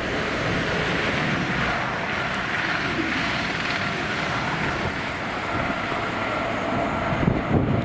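A train passing on the main line, a loud, steady rushing noise that holds throughout.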